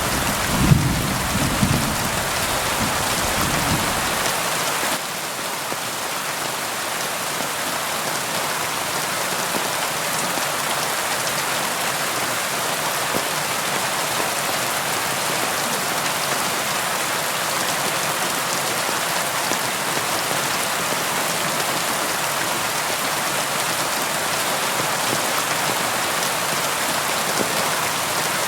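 Steady, heavy rainfall: an even hiss of rain landing on surfaces. A low thunder rumble underneath fades out about four to five seconds in.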